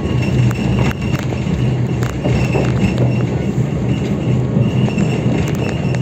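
Diesel-hauled train heard from inside a coach while rolling slowly through a station: a steady low drone with a few sharp clicks from the wheels and a faint high squeal on and off.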